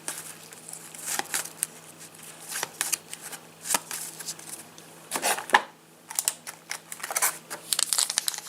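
Trading cards being handled, with scattered light taps and rustles, then a foil card packet crinkling from about six seconds in.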